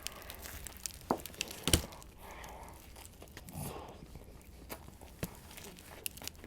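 Close-miked eating: chewing a Subway tuna sub with wet mouth clicks and smacks, and the paper wrapper crinkling, one sharper click about a second and a half in.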